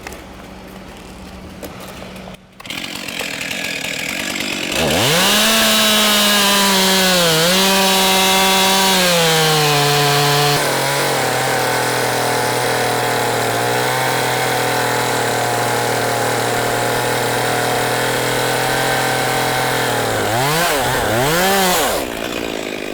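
Crane-mounted chainsaw head starting about five seconds in and running at high speed. About ten seconds in its pitch drops to a lower steady note as the chain works under load in the cut. Near the end it revs up twice and then cuts off.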